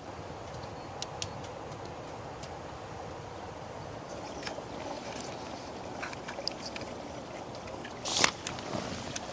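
Steady rain, with scattered small taps and clicks over it and one louder, brief knock about eight seconds in.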